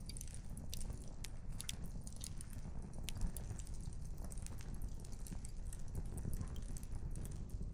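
Campfire burning: firewood crackling and popping in irregular sharp snaps over a low, steady rumble.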